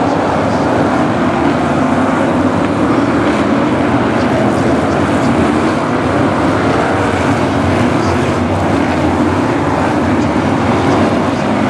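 A pack of Brisca F1 stock cars racing, their V8 engines making a loud, steady, continuous noise.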